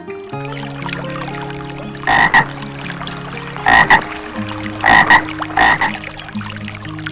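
An animal calling four times in short, loud calls over steady background music.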